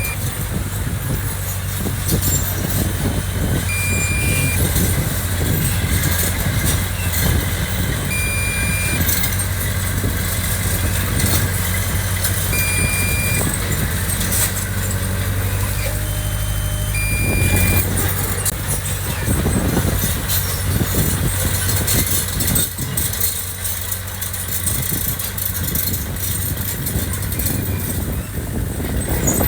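Diesel engine of heavy earthmoving machinery running steadily, with a short high beep repeating about every four and a half seconds through the first two thirds.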